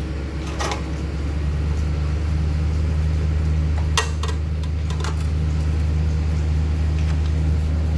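A diesel engine running steadily, likely the crane truck's, with its drone rising slightly about a second in, likely as the hoist is worked. A few sharp metal clinks sound over it, around four and five seconds in.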